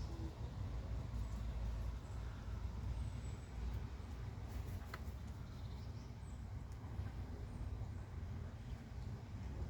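Low, steady rumble of city background noise, with a few faint, brief bird chirps over it, one about halfway through.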